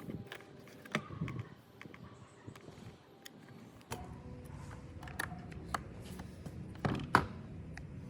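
Repair-bench handling sounds: scattered clicks and knocks of small parts and tools, the loudest about seven seconds in, with a low steady hum coming in about four seconds in.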